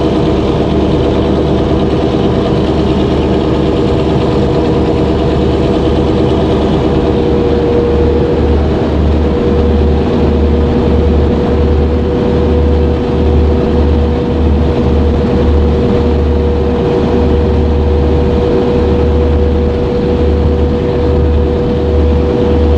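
Boat engine running steadily, a loud constant hum over a low, uneven throb.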